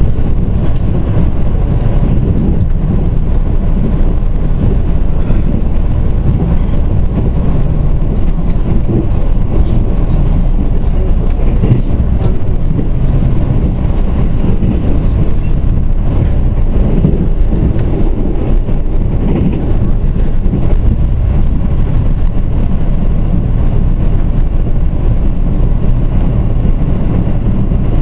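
Mugunghwa-ho passenger train running along the line, heard from on board: a steady low rumble of wheels on rails and the moving coach.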